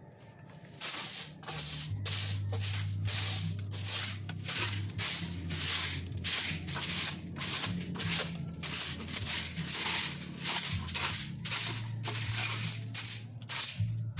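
Bristle brush strokes scrubbing or sweeping a dirty surface, a quick rhythmic scratching of about three strokes a second that starts about a second in.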